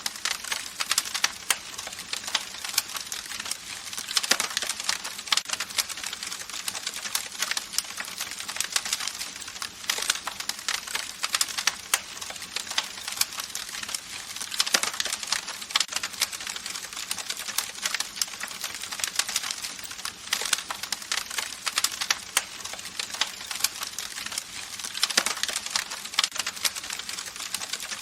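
Campfire crackling: wood fire giving a dense run of small irregular pops and snaps over a soft hiss, with a few louder single pops.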